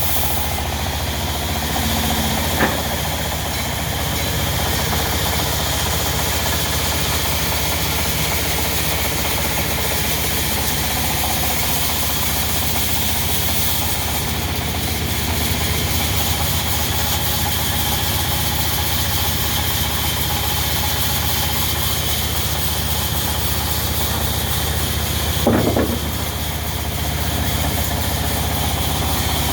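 Diesel engine of a sawmill running steadily. Two brief knocks stand out, one about three seconds in and a louder one near the end.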